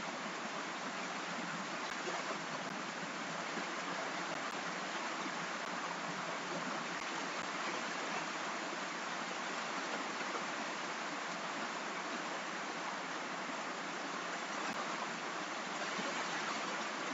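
Steady rain falling, an even hiss with no separate drops or change in strength.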